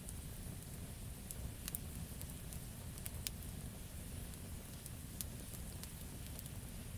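Campfire burning, wood crackling and popping at irregular intervals over a low steady rumble of flames.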